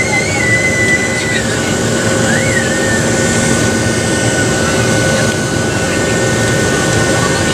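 Cabin noise inside a Boeing 737-700 in flight: the CFM56-7B jet engines and airflow make a steady rushing noise with a constant engine whine running through it.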